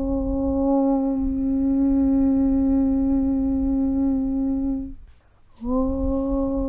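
A voice chanting a long, steady "Aum" on one low pitch, which breaks off about five seconds in for a short pause and starts again, sliding up into the same note.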